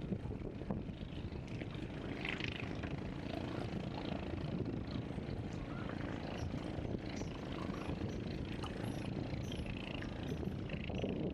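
Seaside outdoor ambience: a steady low rumble, with scattered short bird chirps over it.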